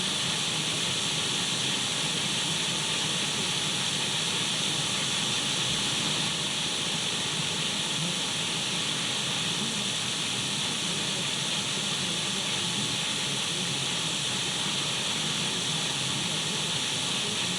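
Radio static: a steady, even hiss, strongest in the upper range, running without change.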